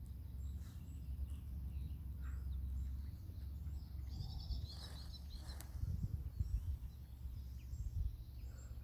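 Small songbirds chirping and twittering, with a brighter burst of twittering about four seconds in, over a steady low outdoor rumble.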